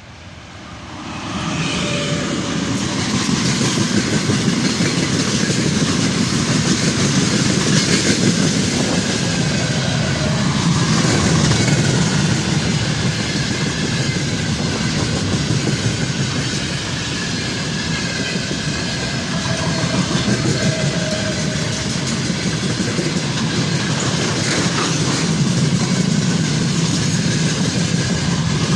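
A freight train hauled by a 2ES5K electric locomotive passing close by, a loud steady rolling noise of wheels on rails. It rises sharply about a second in as the train arrives, and faint thin squealing tones come and go over it.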